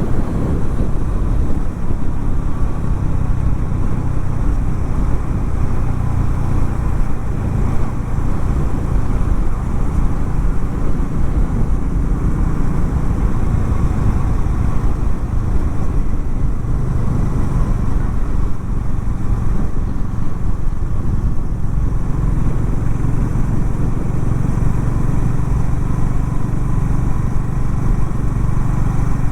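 Harley-Davidson X440 T's 440 cc single-cylinder engine running at a steady, even pace.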